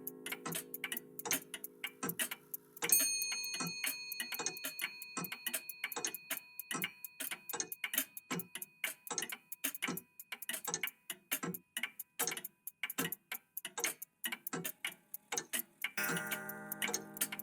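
Old mechanical clocks ticking rapidly, several ticks a second. About three seconds in, a single bell-like chime is struck and rings on, slowly fading. Near the end, a sustained chord of chime tones sounds.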